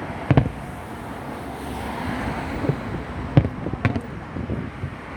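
Fireworks shells bursting in sharp bangs: one just after the start, then a cluster between about three and four and a half seconds in. Wind noise on the microphone runs underneath.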